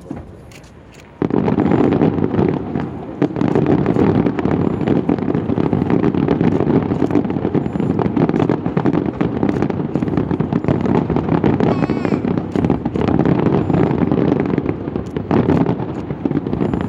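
Fireworks barrage going off: about a second in, a dense stream of rapid bangs and crackles starts suddenly and keeps up without a break.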